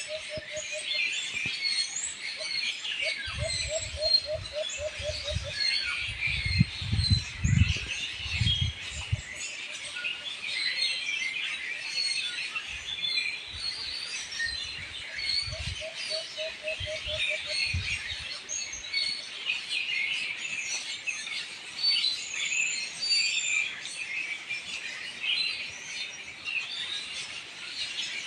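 A dense chorus of many small birds chirping and twittering without pause. Twice a lower, quick run of repeated notes stands out, and low rumbles come and go in the first third.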